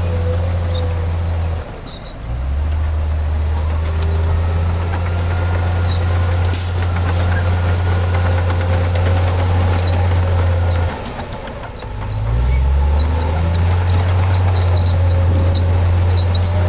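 Heavy diesel engine of an earthmoving machine running steadily, easing off twice for about a second and then picking up again with a rise in pitch.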